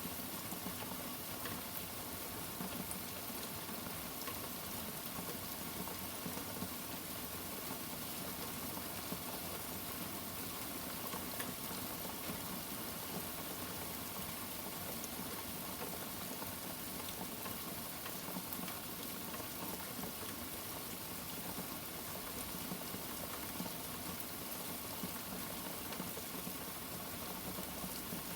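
Steady rain falling, a dense even patter of drops with no thunderclap.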